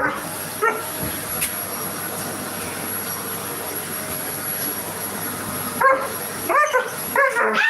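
Vacuum cleaner running steadily with a thin high whine, while a German Shepherd barks at it: a single bark about a second in, then a quick run of barks near the end.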